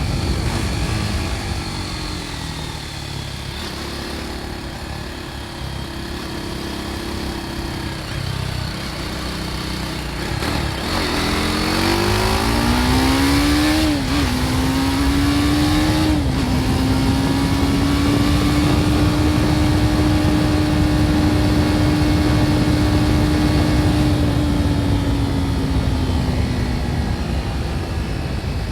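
BMW G310 R's single-cylinder engine with its stock exhaust, heard on the move: running at lower revs at first, then accelerating with a rising note through two quick upshifts about halfway in, then holding a steady cruising pitch that eases slightly near the end. Wind rush runs underneath.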